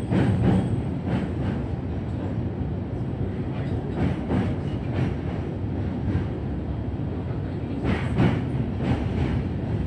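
Electric train running slowly under a strong-wind speed restriction, with a steady rumble and wheels clacking over rail joints in pairs every few seconds.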